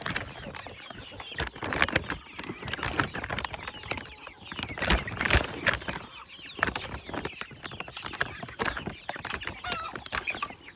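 A flock of chickens clucking and calling, mixed with many short clicks and knocks.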